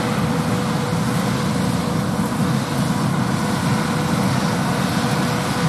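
John Deere 8R tractor pulling an Amadas six-row peanut picker, engine and picker running steadily under load, with a steady whine over the machinery noise.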